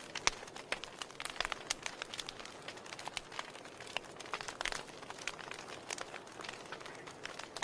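Wood fire burning in a fireplace, crackling and popping with many irregular snaps over a steady soft hiss.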